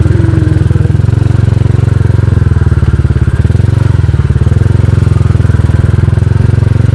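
Small motorcycle engine running steadily under way, a continuous low, pulsing engine note.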